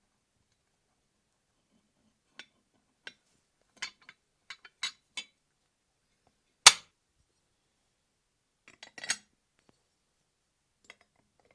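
Small parts of a scale V12 engine model kit clicking and clinking as they are handled and fitted together: scattered light ticks, the loudest a single sharp click about two-thirds of the way through.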